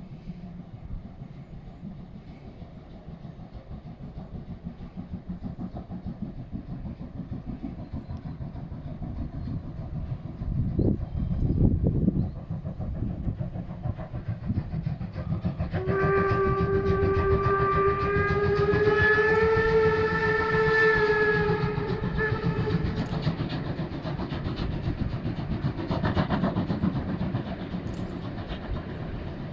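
Steam locomotive 50 3516 (DR class 50.35) working along the line, its exhaust beating continuously and growing louder. About halfway through comes one long steam-whistle blast, lasting about six seconds and rising slightly in pitch.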